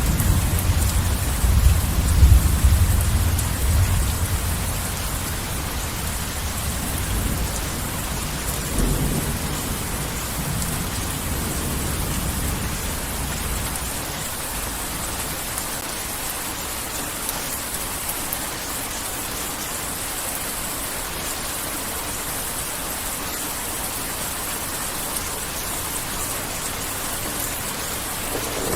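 Heavy rain falling steadily with thunder: a deep roll of thunder in the first few seconds dies away, leaving the even hiss of downpour, and a new rumble begins at the very end.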